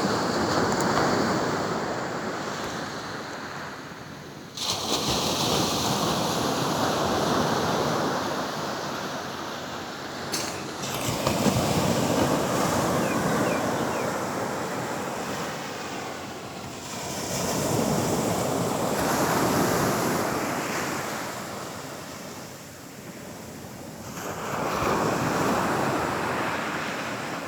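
Sea waves breaking and washing up on a beach, swelling and fading about five times, with wind on the microphone.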